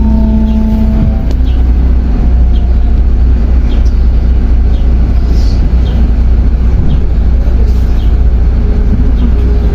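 MAZ 105 articulated city bus under way, heard from inside: a steady, heavy low rumble of engine and road. A short whine fades out in the first second or so, and faint light rattles recur throughout.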